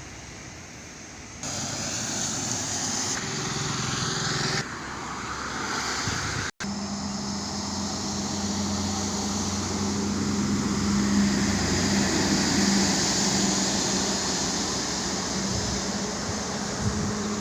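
Motor vehicle on the road: engine hum and road noise, broken by abrupt cuts in the first seven seconds, then a steady drone.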